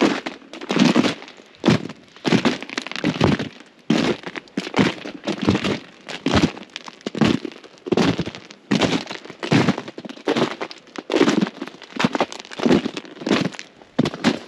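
Footsteps crunching and cracking through ice-crusted ground at a steady walking pace, a little more than one step a second.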